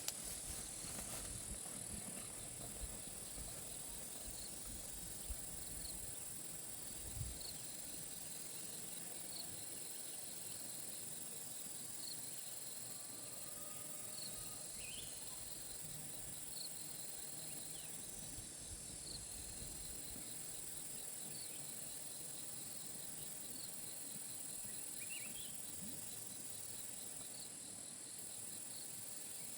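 Insect chorus outdoors: a steady, high-pitched drone of insects with a faint cricket-like chirp repeating about once a second, plus a few brief higher chirps. There are a few soft low knocks in the first several seconds.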